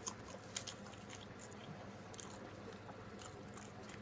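Faint, close-up chewing and biting of pizza: soft, irregular mouth clicks and smacks every half second or so.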